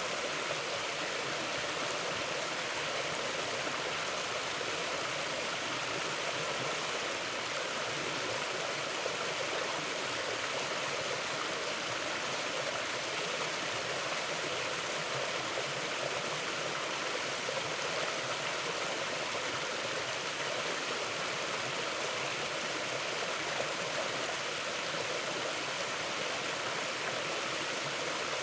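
Mountain river flowing: a steady, unbroken rush of water that stays at an even level throughout.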